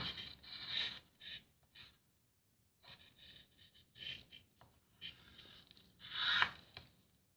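A pen drawing on paper in short, irregular scratchy strokes with pauses between them, a louder stroke about six seconds in.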